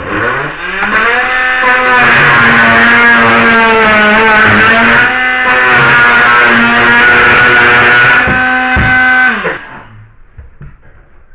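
Electric drill-driver motor spinning up to a steady whine, holding for about eight seconds with small dips in pitch as it takes load, then winding down near the end.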